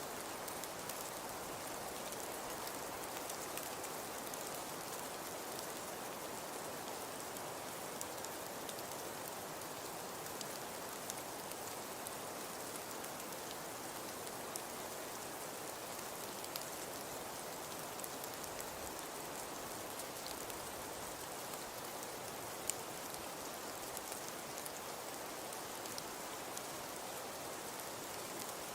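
Fireplace fire crackling softly: a steady hiss with scattered small pops and one louder snap about two-thirds of the way through.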